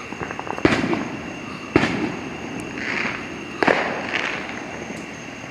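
Fireworks going off: three loud bangs, the second about a second after the first and the third two seconds later, each trailing off, with smaller pops and crackles in between.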